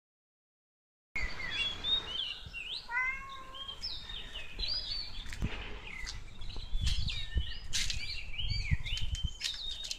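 Several birds chirping and calling, in many short rising and falling whistled notes that start about a second in. Low thumps come now and then in the second half.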